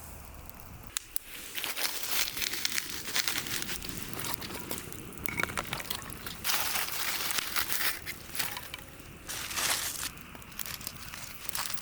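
Irregular crinkling and rustling in uneven bursts, with small crackles scattered through it.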